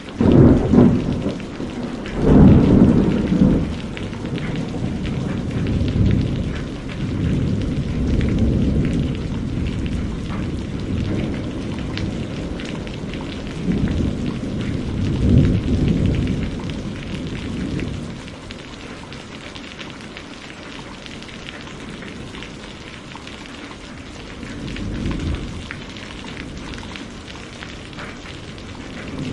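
Steady rain with rolls of thunder: a loud low rumble right at the start, another about halfway through, and a fainter one near the end.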